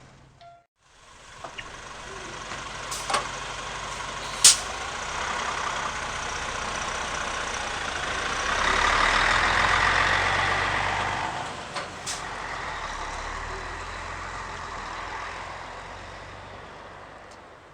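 Mitsubishi Fuso KL-MP37JK city bus heard from inside the cabin, its diesel engine running as the bus moves. A few sharp clicks or air bursts come through, and the engine grows louder for about three seconds midway, then eases off and fades away.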